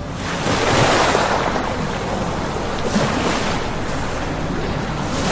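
Water rushing and splashing beside a boat, swelling about every two seconds, over a steady low engine hum.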